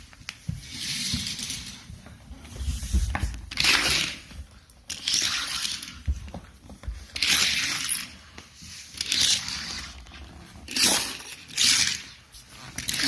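Hot Wheels die-cast toy cars rolling down a plastic track one after another: a rattling rush every second or two, with scattered knocks.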